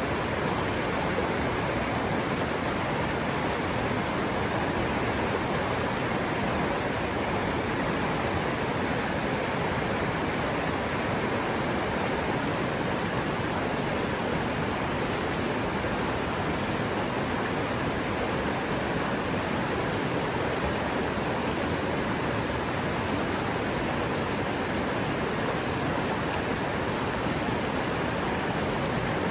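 River water running over rocks, a steady, unbroken rush.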